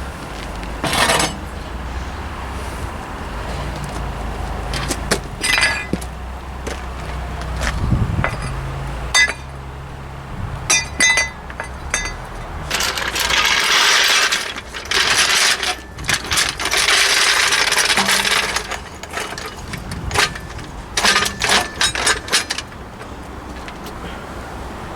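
Metal tools and axle parts clinking and clanking during hand work on a truck differential, with scattered sharp knocks, several of which ring. A few seconds of harsh rasping noise come about midway.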